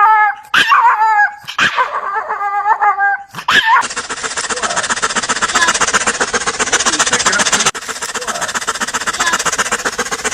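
A dog whining and yelping in high, wavering cries, broken every half second or so. About three and a half seconds in, this gives way to a steady hissing, rattling noise that continues to the end.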